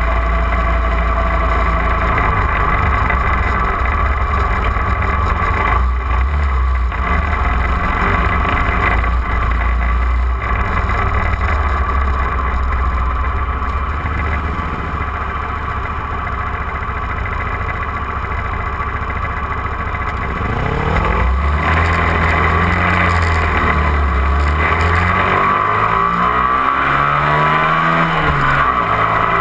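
250 cc motorcycle engine running at road speed, with wind rushing over the microphone. About two-thirds of the way through, the engine note gets louder and starts rising and falling as it revs and shifts.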